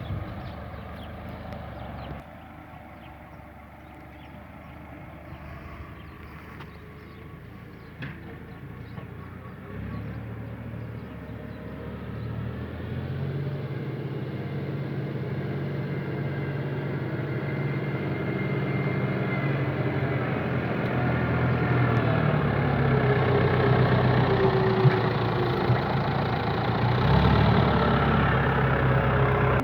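Fendt tractor's diesel engine running, growing louder over the half minute, its pitch stepping up about ten and thirteen seconds in and again near the end.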